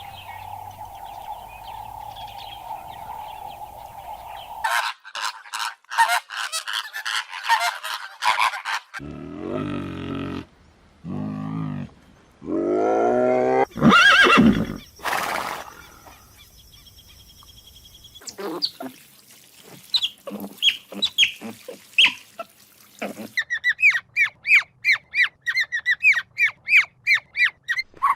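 A string of different animal calls, one after another. A steady high drone comes first. Rapid chattering calls follow about five seconds in, then several drawn-out pitched calls, the loudest around the middle. A fast run of short chirps comes near the end.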